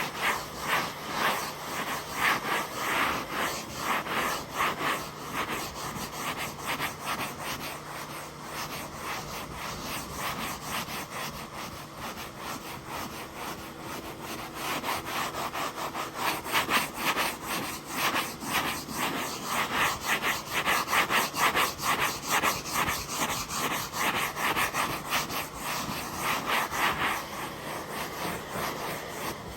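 A brush scrubbing upholstery fabric in rapid, rhythmic back-and-forth strokes, over a faint steady hum.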